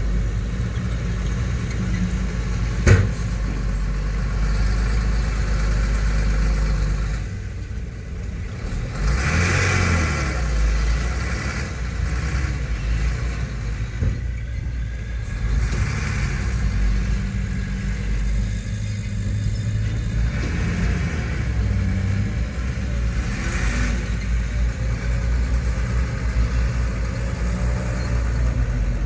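Heavy earthmoving machine's diesel engine running with a steady low rumble, with a sharp knock about three seconds in and a few short swells of hiss.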